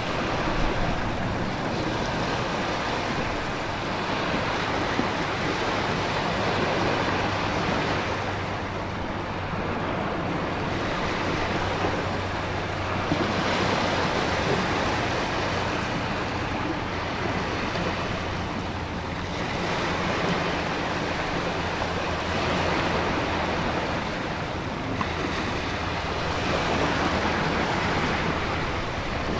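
Storm ambience: heavy ocean surf surging and easing every five or six seconds over a constant hiss of wind and rain.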